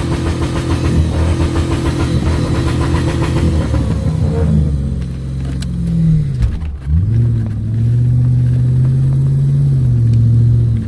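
V8 engine being revved and held at high revs. About four seconds in the revs fall away, dip sharply once and climb back, then hold steady before dropping off near the end.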